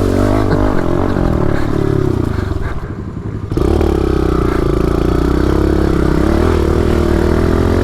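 Pit bike engine running hard under way, its pitch wavering with the throttle, easing off briefly about three seconds in, then held steady at high revs.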